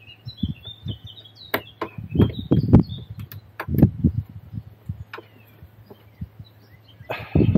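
Irregular knocks and clunks of tools and parts being handled during car suspension work, with birds chirping in the background.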